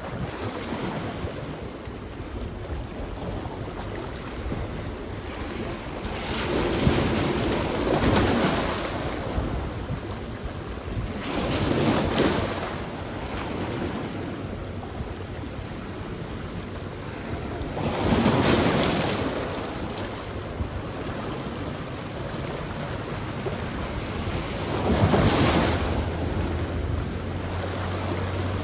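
Sea waves washing onto the beach, four swells that build and fade, over a steady low rumble.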